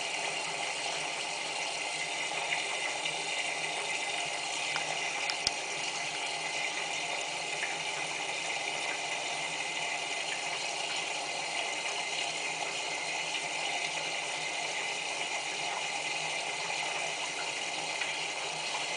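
Whirlpool AWM4066 front-loading washing machine taking in water during its final rinse: a steady rush of water flowing in through the inlet, with a few light clicks and one sharper click about five seconds in. The bulky, absorbent blanket keeps the machine refilling.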